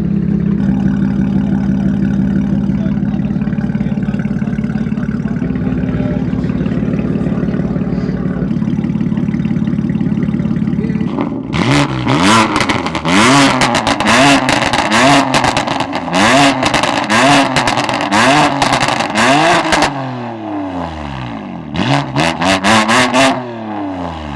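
Car engine running at a steady high idle, then revved up and down over and over, about once a second, with sharp exhaust pops and crackles as the revs drop. After a short quieter spell it gets a last quick burst of revs and crackles near the end.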